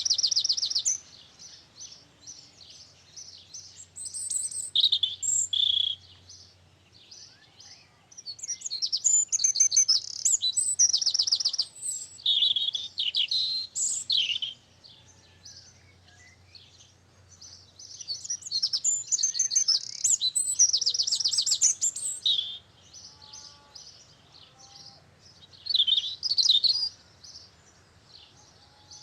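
A songbird singing loud, high, rapid trilling phrases a few seconds long, with pauses between them; softer chirps from birds fill the gaps.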